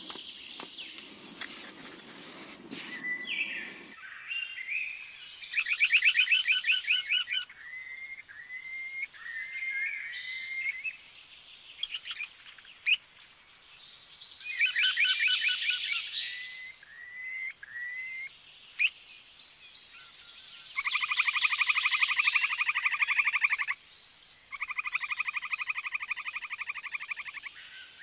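Songbirds calling: clicks and a rustle in the first few seconds, then short rising whistled notes and rapid trills, with two long, evenly pulsed trills in the second half, which are the loudest part.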